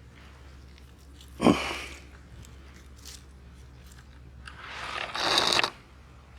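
Two crunches: a short, sharp crunch about a second and a half in, then a longer crunching rustle that builds and stops near the end.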